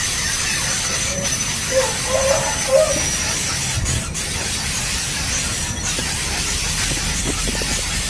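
Steady hissing background noise, with a few short, faint calls about two to three seconds in.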